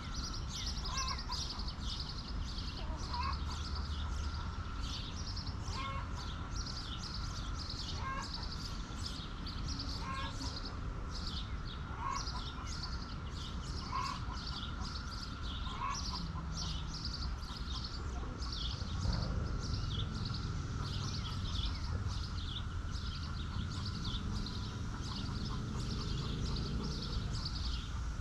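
Backyard flock ambience: chickens calling, with a short call repeating about every two seconds through the first half, over dense, quick high chirping and a steady high whine. A low rumble comes in about two-thirds of the way through.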